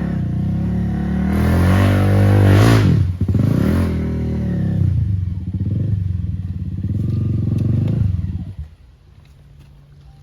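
Enduro dirt bike engine revving hard, pitch climbing to a peak about two and a half seconds in, dropping sharply, pulling again and running steadily, then falling to a quiet idle near the end.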